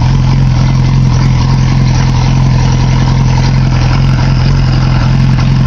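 A 2008 Yamaha R6 inline-four engine idling steadily while it warms up from a cold start, through an aftermarket exhaust.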